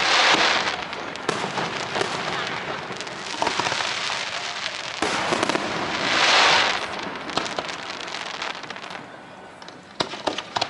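Fireworks display: continuous crackling and popping with scattered sharp bangs. There are louder crackling swells right at the start and again about six seconds in.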